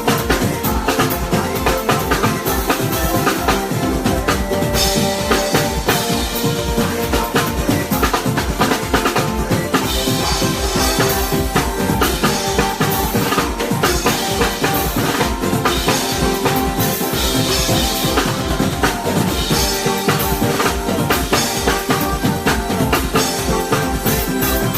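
Live band playing through a sound check, the drum kit to the fore: kick drum, snare and rimshots keeping a steady rhythm under low bass notes and sustained pitched notes from other instruments.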